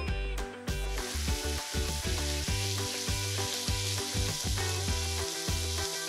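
Diced chicken breast, peppers and tomato sizzling in an oiled frying pan, the hiss setting in about a second in as the pan is uncovered, and stirred with a silicone spatula. Background music with a steady bass plays throughout.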